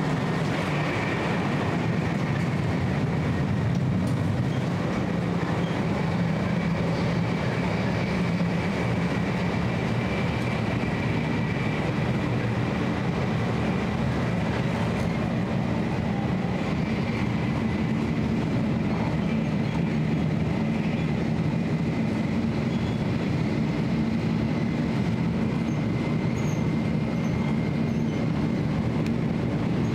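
Steady running noise of a 500 series Shinkansen heard from inside the car: an even low rumble with a faint steady high whine throughout.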